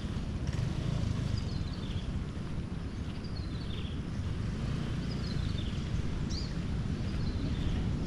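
Outdoor ambience dominated by a steady, uneven low rumble, with a bird repeating a short high call that falls in pitch, about once a second.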